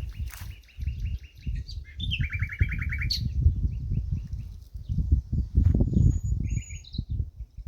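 Small birds singing: two fast trills of evenly repeated chirps in the first three seconds, then scattered shorter calls, over a loud, uneven low rumble.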